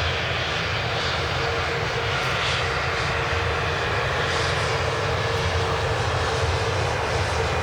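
Jet airliner engines running steadily, a loud even rush with a held whine.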